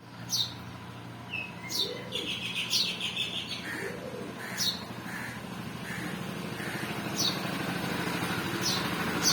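Small birds chirping: short, sharp chirps that slide downward, repeating every second or two, with a brief buzzy trill about two seconds in. A steady low hum runs underneath.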